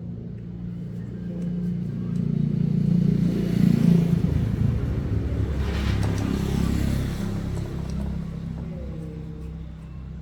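2004 SYM motorcycle engine running: it revs up, loudest about four seconds in, then drops back toward a lower idle.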